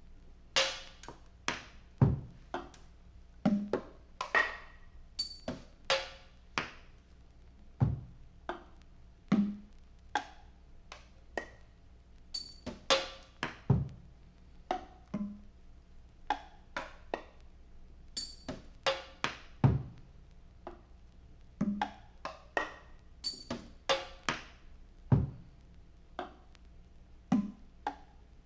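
Sparse, loose drum and percussion hits in an irregular free-time pattern, some with a short pitched ring. A deep drum hit falls about every six seconds among lighter knocks, over a faint steady low hum.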